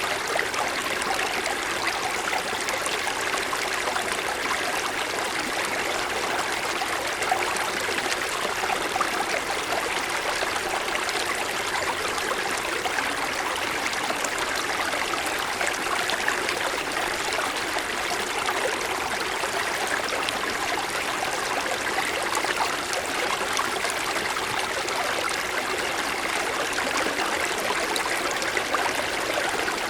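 Mountain stream flowing over rocks: a steady rush of running water with fine splashing and trickling, even throughout.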